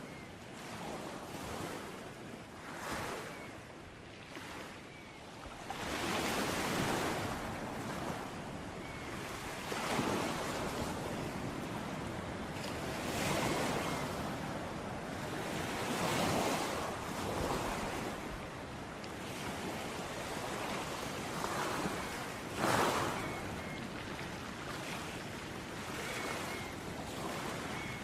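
Sea waves breaking on a beach: a continuous hiss of surf with a louder surge every three to four seconds as each wave comes in, the strongest about three-quarters of the way through.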